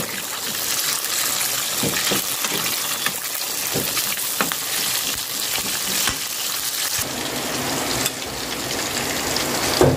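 Red and green chilies sizzling in hot oil in a metal wok while a spatula stirs them, with scraping knocks against the pan every second or so. About seven seconds in it changes to the steadier sizzle of a whole gourami deep-frying in oil.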